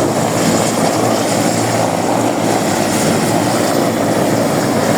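Aircraft engine running loud and steady at close range, a constant roar of turbine and propeller noise without change.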